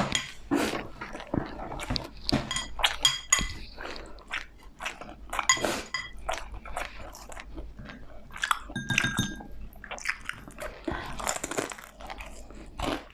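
Close-miked eating: irregular crunching, biting and chewing of food, with a few brief clinks of cutlery against a dish.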